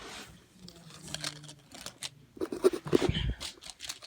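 Scattered light clicks and scrapes from toy monster trucks and their track being handled between races.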